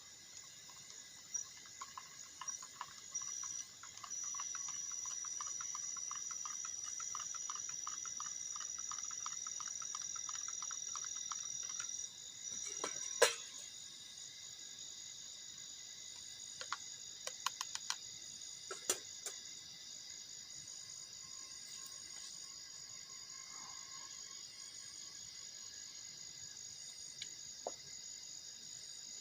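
Night chorus of crickets and other insects trilling steadily, with one high continuous trill and a pulsing chirp of about several beats a second that stop about halfway through. A sharp click about halfway through and a few lighter clicks a few seconds later.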